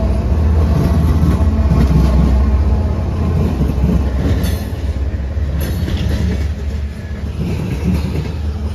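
Norfolk Southern freight train passing close by: the GE ES44AC diesel locomotives go by with a heavy, deep engine rumble that eases after about three seconds, and open-top hopper cars follow, their wheels rolling and clattering over the rail with a couple of metallic clanks.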